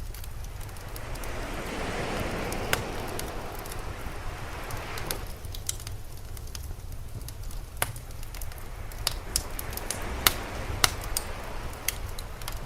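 Fire crackling with scattered sharp pops, over sea waves washing in and out. The surf swells up about two seconds in and again near the end, with a steady low rumble beneath.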